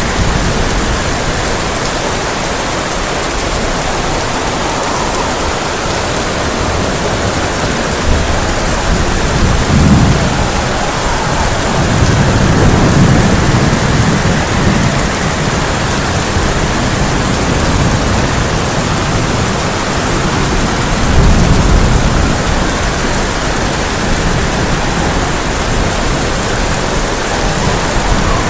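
Heavy rain drumming steadily on a tin roof, with rolls of thunder rumbling low about a third of the way in, again soon after, and once more near three-quarters through.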